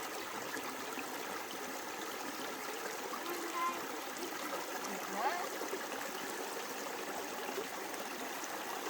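Steady rush of running water, like a small stream, where soil-covered cassava roots are being washed clean.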